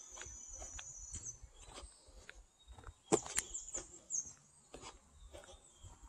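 Birds calling in a forest valley, with a cluster of quick high chirps about three seconds in, over scattered sharp clicks and a low rumble.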